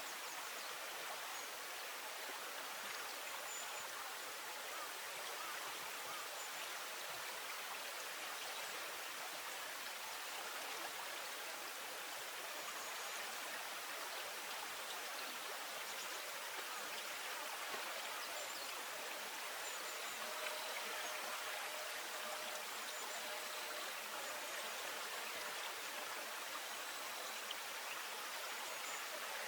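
Steady rush of flowing water, with faint short high chirps now and then.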